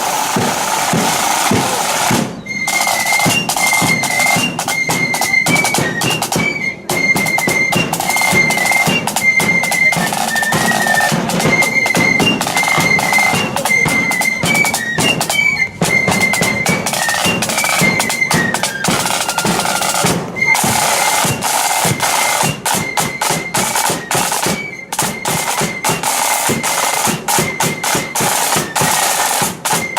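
Marching flute band playing: flutes carry a high melody over loud, busy snare drums and bass drum. The drums are already going at the start and the flutes come in about two seconds in.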